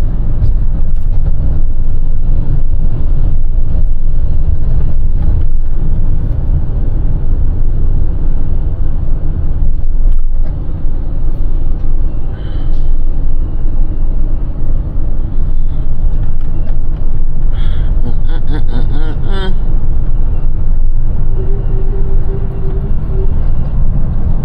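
Steady low rumble of a small box truck's engine and road noise heard inside the cab while driving in slow traffic.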